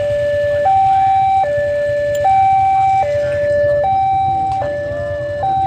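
Level crossing warning alarm sounding a loud electronic two-tone signal, stepping between a higher and a lower tone about every 0.8 s: the warning that a train is approaching and the crossing is closed.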